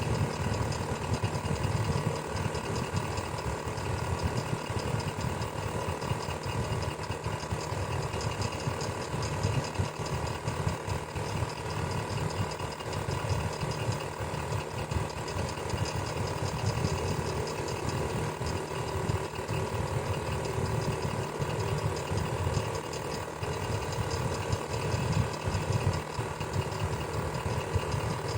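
Electric fan running steadily: a low motor hum and rushing air, with a faint steady whine above it.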